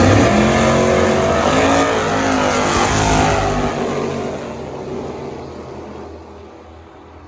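Drag race car accelerating hard down the strip. The engine is loudest at the start and holds for about three seconds, then fades steadily as the car pulls away.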